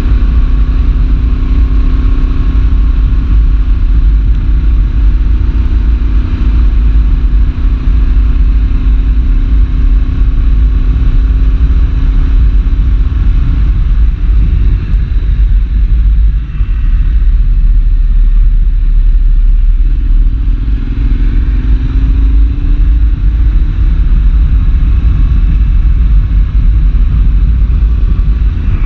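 Yamaha Tracer 7's parallel-twin engine through a full GPR exhaust with dB-killer, running steadily under way. About halfway through it eases off, then picks up again with a rising pitch. A strong low wind rumble sits underneath.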